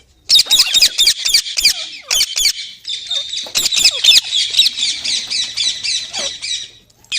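Rose-ringed (Indian ringneck) parakeet giving a fast, unbroken run of shrill squawks for about six and a half seconds, stopping shortly before the end.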